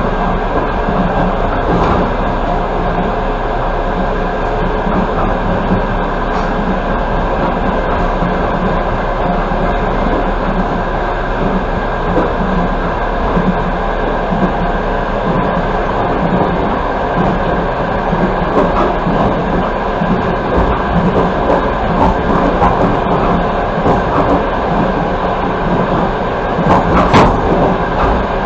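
Passenger coach of a fast train running along the track, heard from inside the carriage: steady rumble and wheel-on-rail noise with occasional clacks, one sharper knock near the end.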